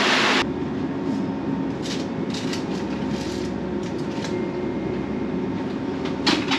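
A brief loud rush of wind and water cuts off just under half a second in. It gives way to the steady low drone of a yacht's machinery under way, with scattered light clicks and rattles.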